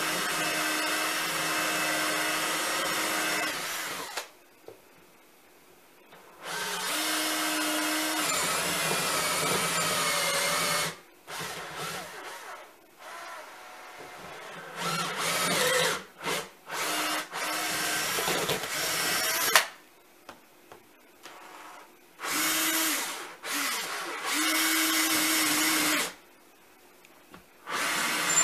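Power drill running in repeated bursts of a few seconds each, stopping and starting again, with some short stuttering pulls of the trigger in between.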